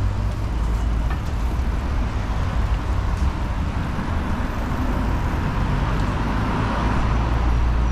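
Road traffic noise on a city street: motor vehicles running past with a steady low rumble, and engine and tyre noise swelling over the second half.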